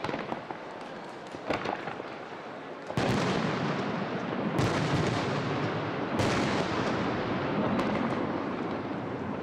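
Aerial firework shells bursting: a few lighter reports in the first two seconds, then from about three seconds in a dense run of loud bangs over continuous crackling and rumble. The sharpest bangs stand out at about three, four and a half and six seconds.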